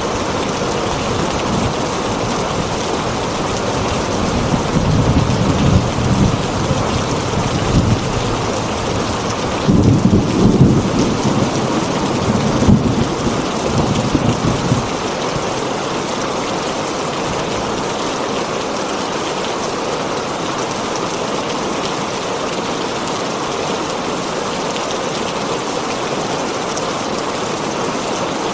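Heavy rain falling steadily on a tin roof, with thunder rumbling low from about four seconds in until about fifteen seconds in, loudest around ten seconds.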